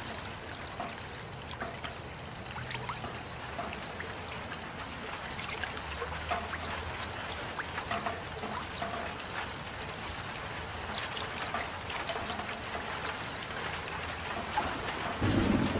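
Rain falling steadily, a constant hiss with many separate drops ticking and dripping through it. Near the end a louder, low rush of sound comes in.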